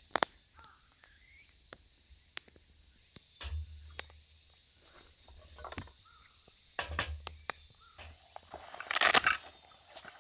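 Insects trilling steadily in the background, with scattered sharp clicks and knocks and a louder rustling clatter about nine seconds in.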